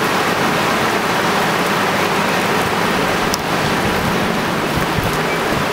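Heavy rain coming down in a steady, loud downpour, with one sharp tick a little over three seconds in.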